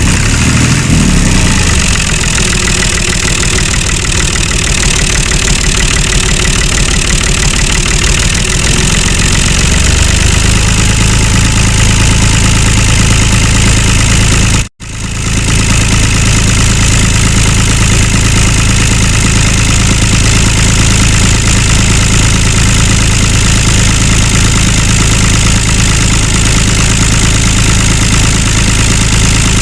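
A small motor-driven mini tractor running steadily, a loud continuous mechanical drone with a fast even pulse. About ten seconds in a steady low hum settles in, and halfway through the sound cuts out for an instant and resumes.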